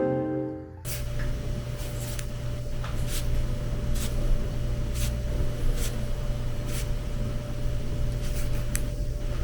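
Guitar music fades out within the first second, leaving a steady low hum of room background with soft clicks and taps every second or so.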